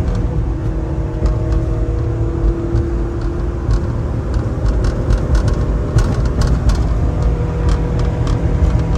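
1993 Mitsubishi Minicab kei truck's small three-cylinder engine running steadily while driving, with road rumble, the engine note shifting about midway, and scattered light ticks.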